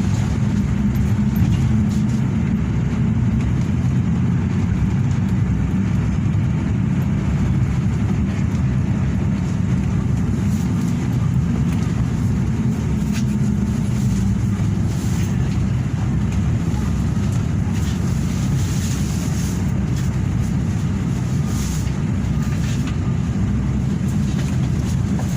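Steady low rumble of a Hino RK8 bus's engine and running gear, even in level throughout.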